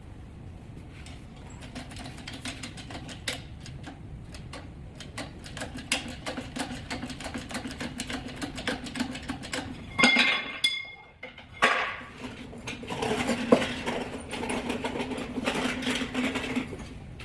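Metal hand tools and engine parts clicking and clinking as work goes on at the engine, over a steady hum. There is a loud, ringing metal clank about ten seconds in, and a second loud clatter just under two seconds later.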